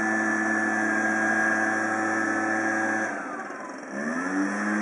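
Kawasaki backpack leaf blower's engine running steadily while blowing snow. About three seconds in the throttle eases off, then the engine revs back up near the end.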